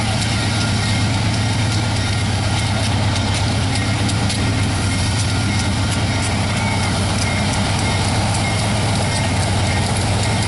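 Diesel locomotive engines running steadily as a freight train led by a Union Pacific GE locomotive draws close and passes. The sound is a loud, even low drone over a constant rumble.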